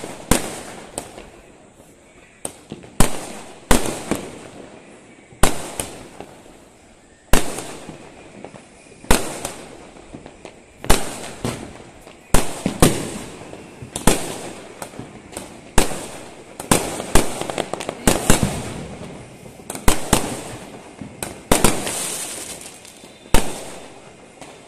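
Aerial fireworks going off in a long series of sharp bangs, one every second or so, each trailing off briefly.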